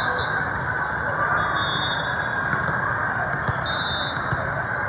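Steady crowd chatter in a volleyball gym, with a few short high squeaks over it.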